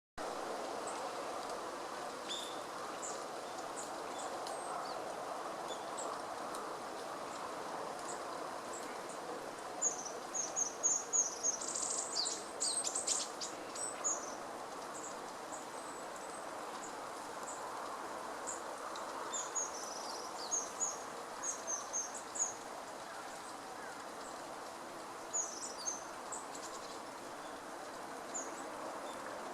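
Long-tailed rosefinch giving short, high, thin chirping calls in several quick clusters, the busiest a third of the way through, over a steady background noise.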